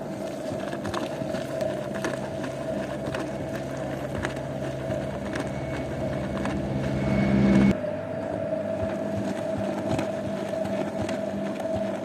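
Zanussi washing machine running, a steady motor hum with light clicking. About eight seconds in the deeper part of the hum swells and then cuts off abruptly, while a higher hum carries on.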